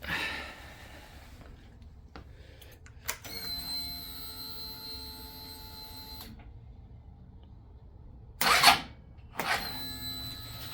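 A start attempt on a 2005 Suzuki SV650 with a cold lithium battery. A steady electric buzz runs for about three seconds and then stops. Near the end a short, loud burst comes as the starter is pressed, and the steady buzz starts again right after. The bike fails to start because the battery voltage sags to about 4 volts while cranking.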